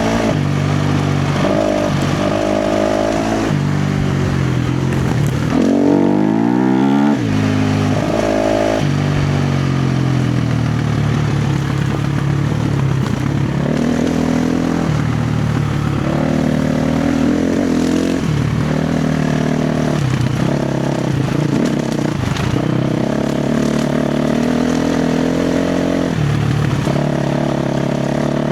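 KTM 350 XC-F's single-cylinder four-stroke engine under hard throttle on trails, its pitch repeatedly climbing and dropping as the rider accelerates and backs off. About six seconds in it revs up sharply and at its loudest.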